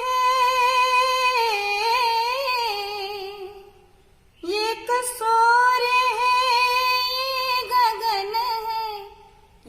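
A female voice singing a wordless passage: two long held notes with small ornamental turns and wavers, broken by a short breath pause about four seconds in.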